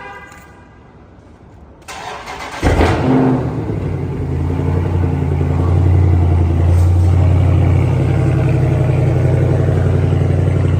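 Car engine cold start: the starter cranks briefly about two seconds in, the engine catches with a quick rev flare, then settles into a loud, steady, deep idle.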